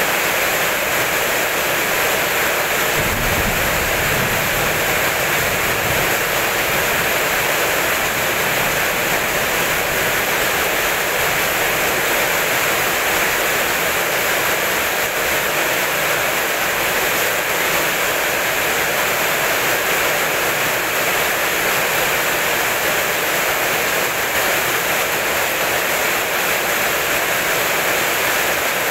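Steady heavy rain, with a brief low rumble of thunder about three seconds in.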